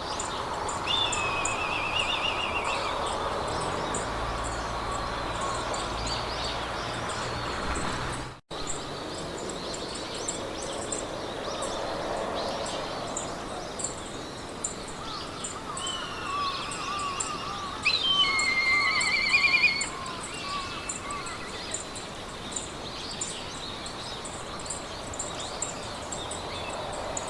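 Meadow ambience of wild birds singing over a soft wind hiss and a steady high ticking. Trilled bird phrases come about a second in and again, loudest, around 18 to 20 seconds in. The sound cuts out for an instant just after 8 seconds.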